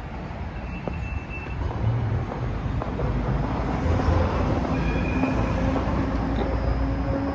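Amsterdam tram running in to the stop: a low rail rumble that builds over the first few seconds and then holds steady, with faint whining tones from the wheels and motors coming in over it.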